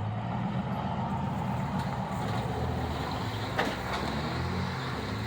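Off-road vehicle engine running steadily at low revs, with a single sharp knock about three and a half seconds in.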